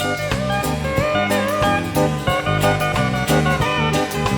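Live country band playing the instrumental intro of a song, with guitars over bass and drums.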